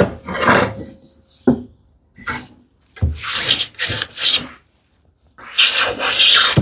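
Hand plane taking strokes along a thin cherry strip, about six shaving passes of uneven length with short pauses between them.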